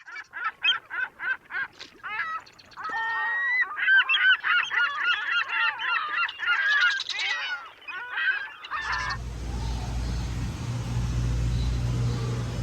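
A group of birds calling loudly, like geese honking: first a run of separate calls, about three a second, then many birds calling over one another. The calls cut off about nine seconds in, and a steady low hum follows.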